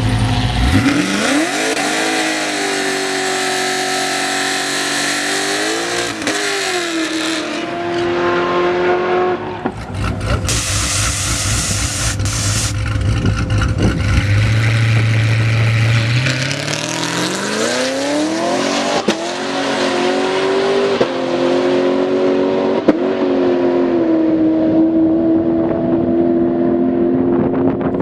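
Two drag cars launch one after the other. Each engine's pitch climbs sharply, then holds high with brief dips at the gear changes as the car runs away down the strip and fades. A low engine rumble comes before the second launch.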